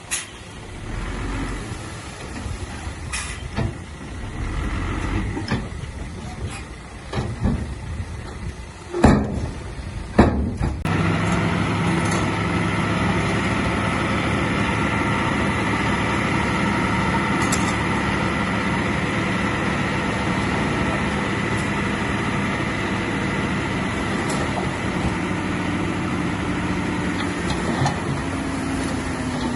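A heavy diesel machine at work: a few loud metallic knocks and clanks over the first ten seconds, then the diesel engine running steadily at a constant speed.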